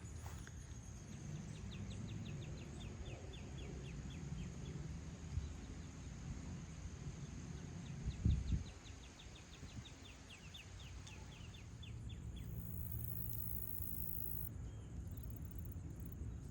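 Woodland ambience: a bird gives two rapid trills of short falling notes, one soon after the start and one about halfway. Under them runs a steady high insect drone that stops about three-quarters through. A low rumble runs throughout, with a single thump about halfway.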